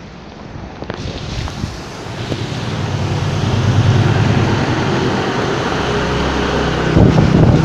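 Heavy rain hissing, with a vehicle engine's low hum growing louder from about two seconds in.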